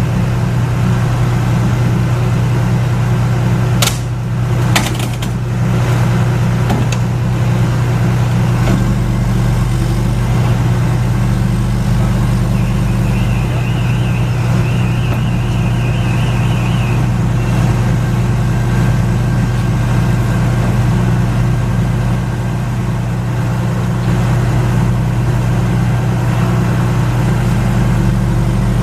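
A large diesel engine of a parked fire truck running steadily, a loud low hum throughout. A few sharp clicks come about four to five seconds in, and a brief warbling high-pitched tone sounds midway.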